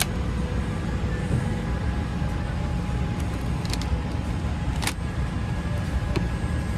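Steady low rumble of a Boeing 787-8 cabin's air conditioning at the gate during boarding, with a faint steady hum over it. Scattered light clicks and knocks, the sharpest about five seconds in.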